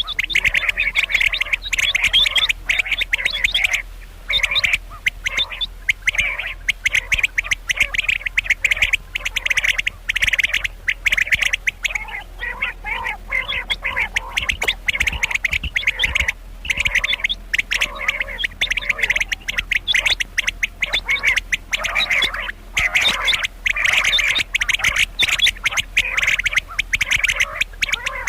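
Common quail calling: a rapid, raspy chattering in repeated bursts of a second or two with short breaks between them.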